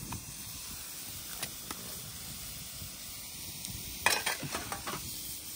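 Grated carrots sizzling in hot ghee in a kadhai, with scattered scrapes and clicks of the stirring spoon and a short cluster of louder scrapes about four seconds in.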